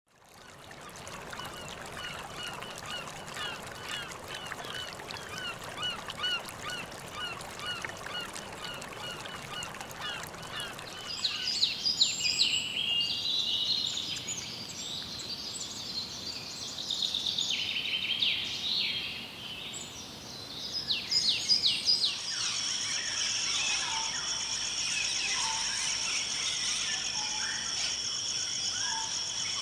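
Wild rainforest birds calling, in three stretches that change abruptly. First comes a dense chorus of many short, repeated falling calls; about eleven seconds in, it gives way to sharp, high calls; about twenty-two seconds in, birds call over a steady high drone of insects.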